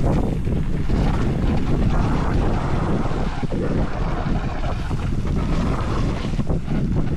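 Wind buffeting the microphone during a mountain-bike ride, with a steady low rumble and irregular knocks from the bike rolling over rough ground.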